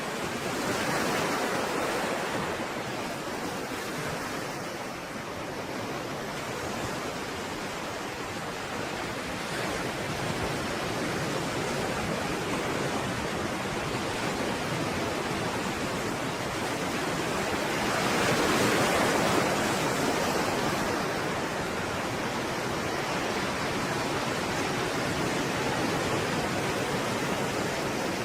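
Stormy sea waves breaking and washing in a continuous rush of surf, with a bigger wave swelling up about two-thirds of the way through.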